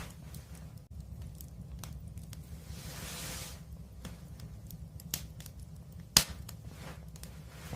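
Wood fire crackling, with scattered sharp pops over a low steady rumble and a brief hiss about three seconds in. The loudest pop comes about six seconds in.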